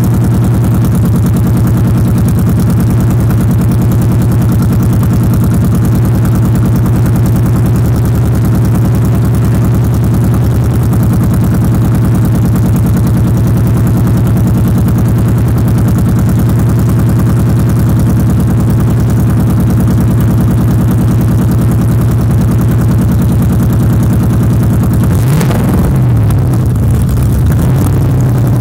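2003 Ford Mustang SVT Cobra's supercharged 4.6-litre V8 with custom cams, running without tail pipes, idling steadily on a cold start. Near the end it is revved twice, the note rising and falling.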